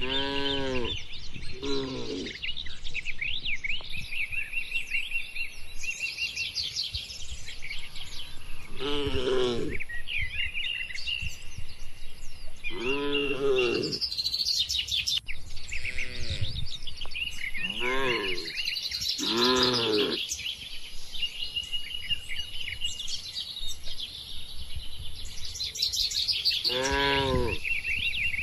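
Birds chirping and trilling continuously, broken about eight times by short, loud, low animal calls, each under a second long, and over a faint steady high-pitched whine.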